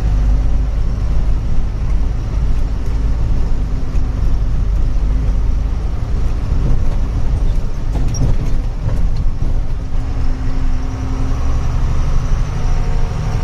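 Truck engine running with a steady low rumble and road noise while driving slowly; the engine note grows a little fuller near the end.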